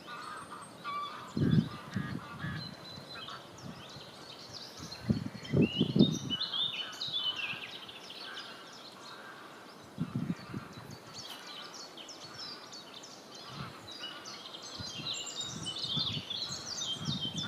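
Several songbirds singing at once, a dense mix of chirps and trills. A few low rumbles break in: about a second and a half in, around five to six seconds, and near ten seconds.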